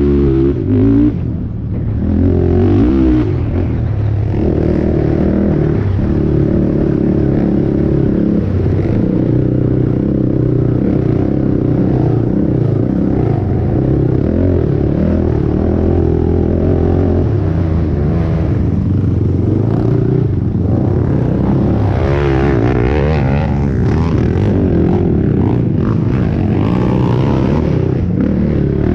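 A race ATV's 450 four-stroke single-cylinder engine running hard, its revs rising and falling with the throttle. It drops off briefly about a second and a half in, then picks up again.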